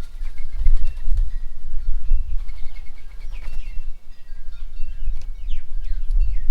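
Birds calling at a feeding table: a quick run of short even notes, then several quick falling whistles near the end, over a steady low rumble.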